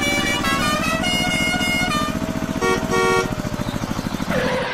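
Engine running with a fast, even putter while a horn sounds a string of short toots at changing pitches.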